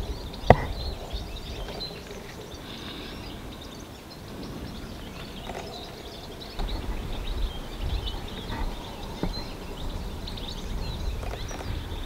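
Small birds chirping in short, scattered calls over a low rumble of wind on the microphone, with one sharp click about half a second in.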